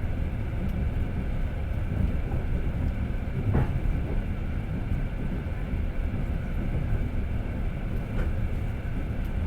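Passenger train carriage heard from inside while running: a steady low rumble of the wheels on the rails, with one sharper knock about three and a half seconds in.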